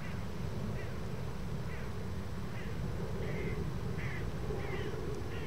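A bird giving short, high calls, about eight in a row, roughly one every three-quarters of a second, over a steady low rumble.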